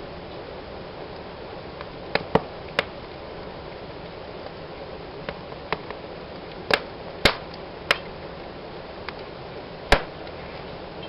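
Fireplace fire burning with a steady hiss of flames and scattered sharp crackles and pops from the burning wood. There is a cluster of cracks about two seconds in, and the loudest pops come about seven and ten seconds in.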